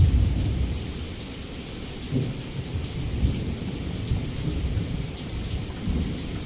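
Heavy rain falling steadily, with a thunderclap breaking in suddenly at the start and rolling on as a low rumble that swells again several times.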